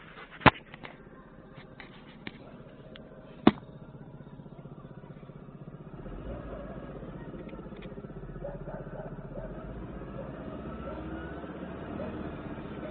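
Inside the cabin of a Volkswagen Caravelle van: two sharp knocks in the first few seconds, then from about six seconds in the van running with a low rumble and an irregular ticking rattle over it, the unidentified noise that the owner is asking about.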